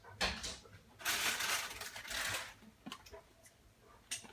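Rustling, crinkling handling noises in two stretches of about a second each, with a few small clicks.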